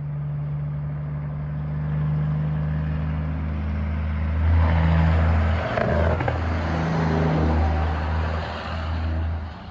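Heavy diesel truck engine running with a deep, steady drone, swelling louder in the middle and dropping away near the end as the truck passes.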